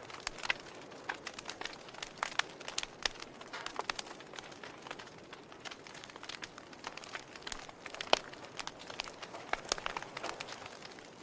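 Fire crackling steadily with irregular snaps and pops over a soft hiss, with one sharper pop about eight seconds in.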